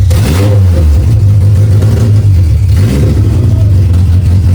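Race car engine running loud and steady, with two brief changes in pitch, about a third of a second and about three seconds in, as the throttle is worked. It is running again after the car was rolled over, on replacement junkyard sensors.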